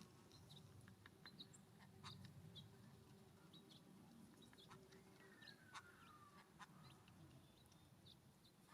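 Faint songbirds at a ground feeder: scattered light ticks and taps, and one faint call sliding down in pitch about five seconds in, over a low steady hum.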